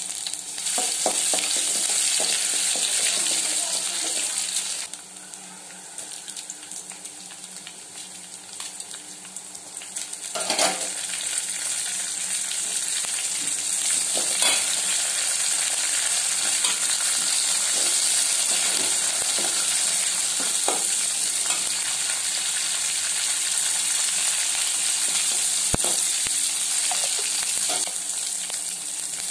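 Hot oil sizzling in a steel kadai as chopped ingredients fry, with a spatula scraping and knocking against the pan now and then. The sizzle drops back about five seconds in and comes up loud again about ten seconds in, with green chillies and curry leaves frying in the pan.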